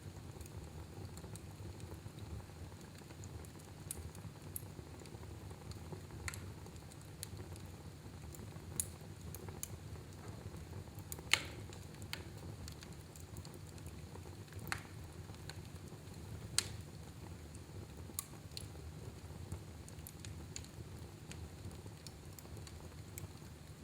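Wood fire burning in a fireplace: a low steady rumble with irregular crackles and pops, two sharper pops about eleven and sixteen seconds in.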